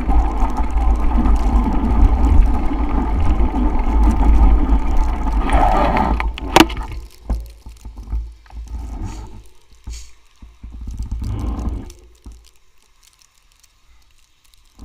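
Heavy wind rumble on the microphone with the rolling noise of a bicycle ride through snow. About six and a half seconds in there is a sharp click, and after it the noise turns patchy and fades until it is very quiet for the last couple of seconds.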